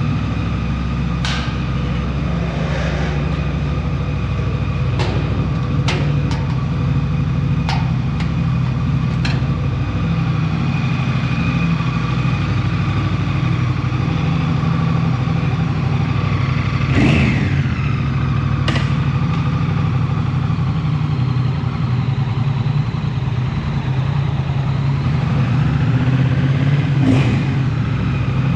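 Motorcycle engine running steadily while riding, a low even hum. A few sharp clicks come in the first ten seconds, and the sound swells briefly twice, once about halfway and once near the end.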